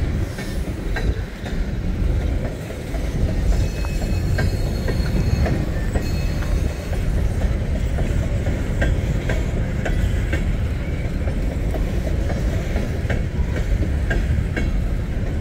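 A train of empty coal cars rolling past: a steady rumble of wheels on rail with scattered clicks and clanks, and a faint high wheel squeal now and then in the middle.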